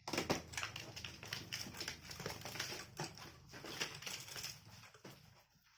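Cardboard shipping box of live munias being handled as a bird is taken out: a rapid, irregular run of scratchy taps and scrabbling, thinning out near the end.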